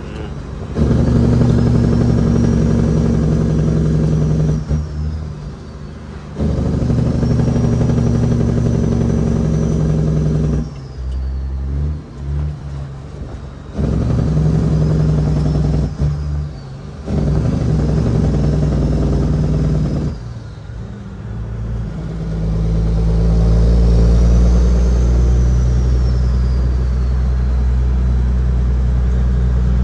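Heavily loaded Kenworth W900L's Cat 6NZ inline-six diesel pulling hard through successive gears of an 18-speed transmission, with a high whistle rising and falling over each pull. The engine note drops away briefly between pulls as each gear is changed, four times, then settles into a deeper, louder, steady pull near the end.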